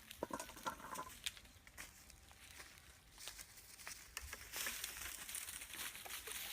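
Rustling and crinkling with scattered light clicks and knocks; a denser hissing rustle sets in about four and a half seconds in.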